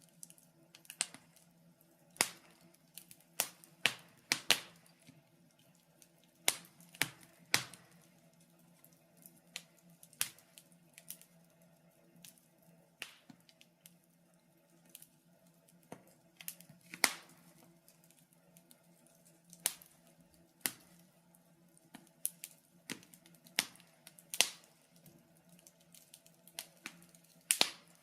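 Wood fire crackling in a fireplace: irregular sharp pops and snaps, a few louder ones, over a faint steady low hum.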